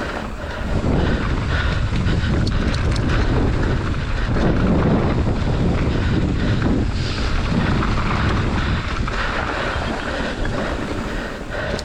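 Wind buffeting the microphone as a mountain bike rides downhill at speed, with the tyres rumbling over the trail and the bike rattling with small clicks and knocks.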